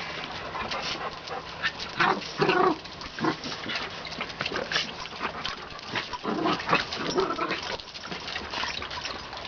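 Two dogs play-fighting: a puppy and a similar-sized dog scuffling, with steady small clicks and knocks throughout. Short dog vocal sounds come in two clusters, about two seconds in and again a little after six seconds.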